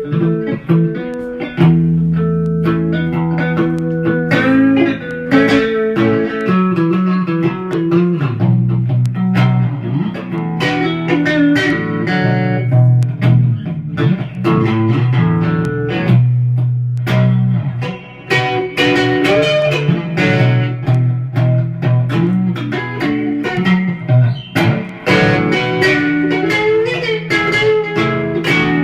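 Guitar playing a blues riff: runs of picked notes over sustained low notes, continuous throughout.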